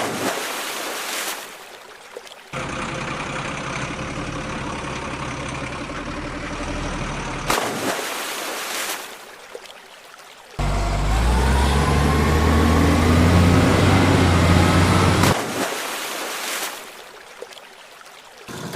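Heavy vehicle engine sounds in several abruptly cut segments. The loudest, from about the middle of the stretch, is a deep engine rumble whose pitch rises as it revs, then cuts off.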